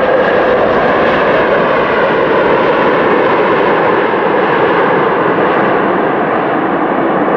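Airplane engines running loud and steady, the sound slowly growing duller.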